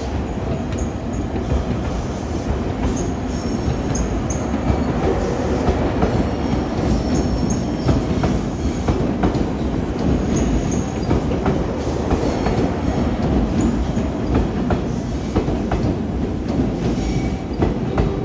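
JR Kyushu 883 series electric train pulling out of the station, a steady low rumble of the cars rolling by with wheels clacking over rail joints and squealing faintly on the track.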